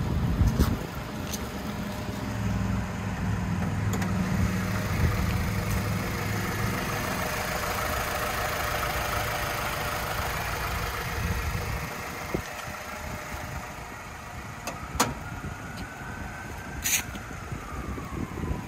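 The 2001 Acura Integra Type R's 1.8-litre four-cylinder VTEC engine starting and then running at a steady idle, with the idle note dropping away about twelve seconds in.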